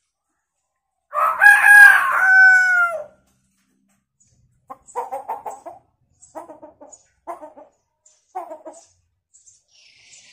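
Hill myna mimicking a chicken: one crow about a second in, about two seconds long and falling in pitch at the end, then four short clucks.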